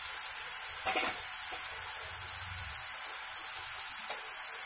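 Onion paste sizzling in hot oil in a metal kadai, a steady hiss. A brief knock comes about a second in.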